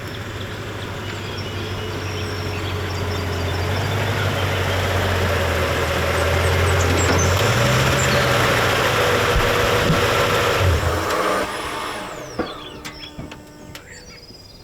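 A vehicle engine running and growing louder, its pitch stepping up about seven and a half seconds in, then dropping away suddenly around eleven seconds, leaving a few quieter clicks.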